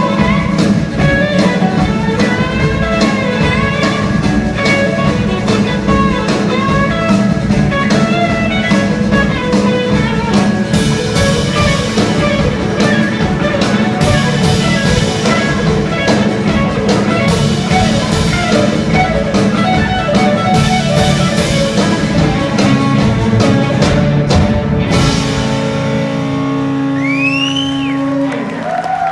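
Live rock band playing an instrumental stretch with electric guitars, bass and drum kit. About 25 seconds in the drums stop and a held chord rings on, with a sliding guitar note near the end.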